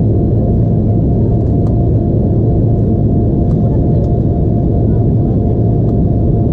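Steady, loud cabin drone of an Embraer E175 airliner: the noise of its turbofan engines and the airflow around the fuselage, heard from a passenger seat, with a low steady hum underneath.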